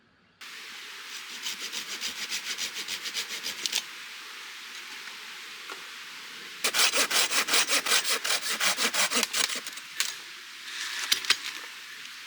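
Hand saw cutting through firewood in two bouts of quick back-and-forth strokes, about a second in and again past the middle, with a pause of a few seconds between them.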